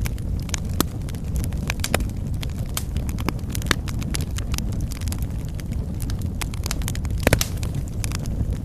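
Wood fire in a fireplace crackling, with irregular snaps and pops over a low steady rumble. A louder cluster of pops comes about seven seconds in.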